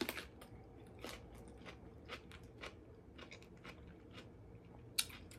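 Crunchy chewing after a bite into a raw cucumber: a crisp bite at the start, then irregular small crunches, with one sharper crunch near the end.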